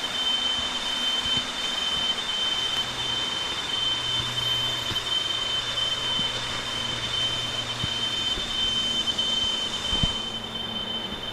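Rushing waterfall water with a steady, shrill two-note insect drone over it, typical of tropical forest cicadas. There is a single knock about ten seconds in.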